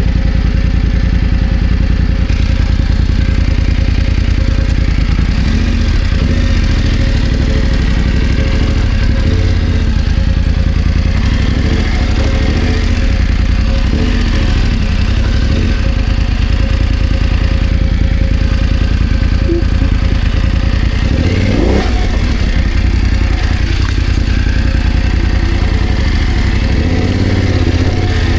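BMW F900GS motorcycle's parallel-twin engine running at low revs on rough ground, the revs rising and falling with the throttle, most clearly about halfway and three quarters of the way through.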